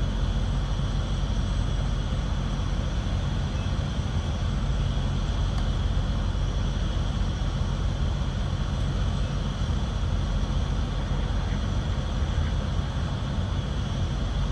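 Semi-truck's diesel engine running steadily at low speed, a constant low rumble with a faint steady whine above it.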